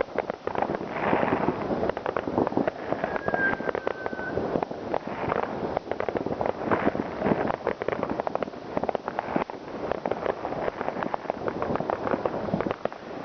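New Year's Eve fireworks: dense, continuous crackling and banging of many firecrackers and shells going off over one another. A short whistle, dropping slightly in pitch, cuts through about three seconds in.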